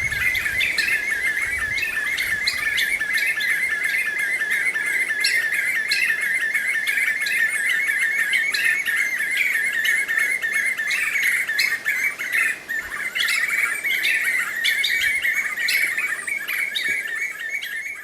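Black-fronted nunbirds calling in a long, unbroken chorus: a fast warbling chatter held at one steady pitch, with short sharp higher notes over it.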